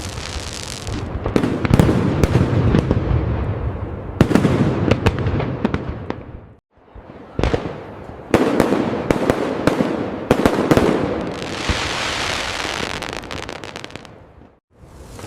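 Fireworks display: waves of sharp bangs and dense crackling, with a stretch of hissing crackle after about eleven seconds. The sound drops away briefly twice, about six and a half seconds in and near the end, then resumes.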